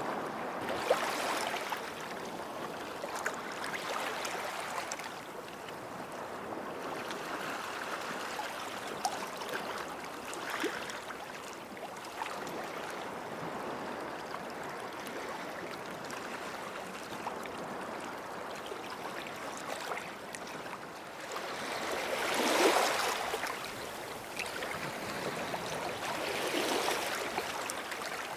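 Small sea waves washing onto the shore and draining back, in a steady wash that swells and ebbs. Two stronger surges come about three quarters of the way through, the first the loudest.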